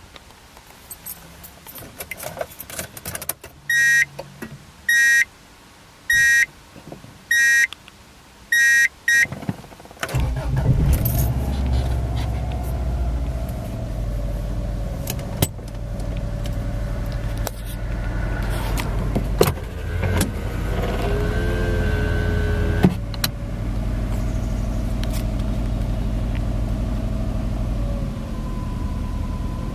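Key clicks and a car's warning chime beeping five times. About ten seconds in, the 1994 Subaru Legacy's flat-four engine starts from cold and settles into a steady idle.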